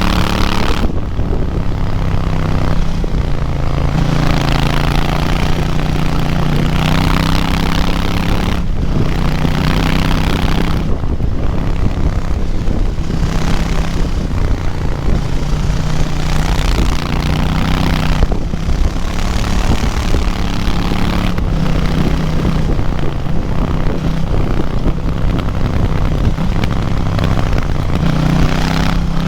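KTM 790 Duke's parallel-twin engine pulling hard up a mountain road, heard onboard. Its pitch climbs and falls back as the throttle is rolled off or a gear is changed every few seconds, with wind noise over it.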